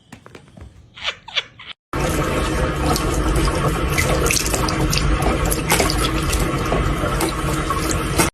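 Steady rush of running water with small clicks and splashes in it, starting suddenly about two seconds in after a few quieter scattered sounds.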